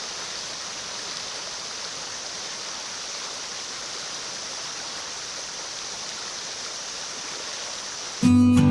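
Mountain stream water rushing steadily over rocks. Acoustic guitar music starts abruptly near the end, much louder.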